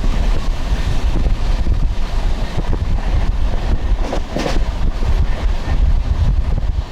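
Wind buffeting the microphone over the low, steady rumble of a moving passenger train.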